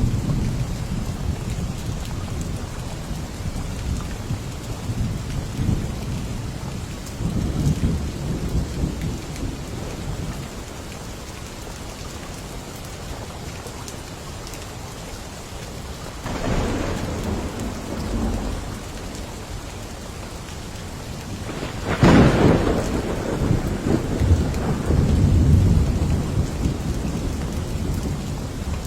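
Steady rain with rolling thunder. Low rumbles swell and fade several times, and a sharper thunderclap about three-quarters of the way through is followed by further rumbling.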